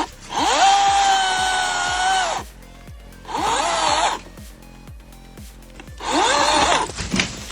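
Chainsaw revved three times, each a rising whine held briefly and then released, with the longest first. A steady music beat runs underneath.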